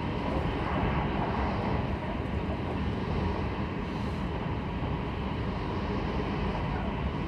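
Running noise of a Kintetsu 22000-series limited express electric train at speed, heard inside the passenger cabin: a steady rumble.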